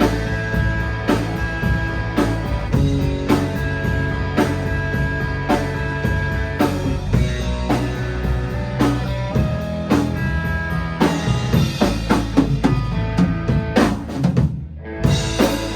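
Rock band playing live: drum kit with bass drum and snare keeping a steady beat under sustained guitar and bass notes. Near the end a run of quick drum hits leads into a short break, and the band comes back in.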